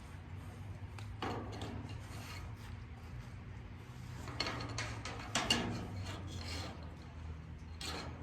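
Rubbing and scraping as a breeding harness is worked onto a ram. A few rasping strokes come about a second in, a cluster in the middle and one near the end, over a steady low hum.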